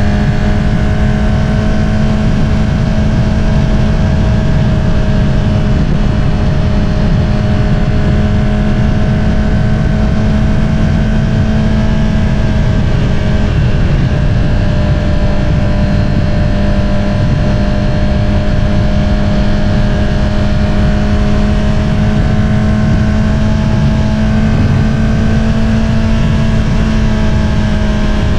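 2022 Honda CBR650R's inline-four engine through an Akrapovič single-outlet exhaust, cruising at steady revs with a loud, even drone. The pitch sags slightly about halfway through and again near the end.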